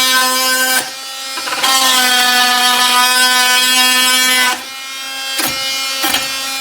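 KIMO 20V cordless oscillating multi-tool running with a steady high buzz, its blade cutting into a nail. The buzz comes in louder, rasping spells, eases off about a second in, then drops back again after about four and a half seconds, with a couple of sharp clicks near the end.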